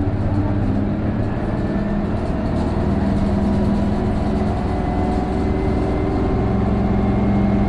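Isuzu Erga PJ-KV234L1 city bus's turbo-diesel engine pulling steadily under load, heard from inside the cabin. A faint high whine rides over the engine: the Aisin-automatic-like abnormal noise this bus makes once the turbo comes in, from about 1300 rpm.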